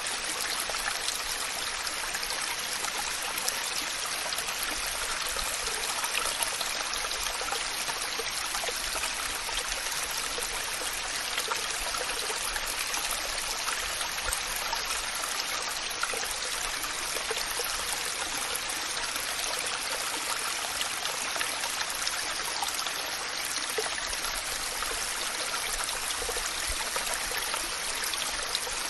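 Waterfall: a steady, unbroken rush of falling water, even in level, more hiss than rumble.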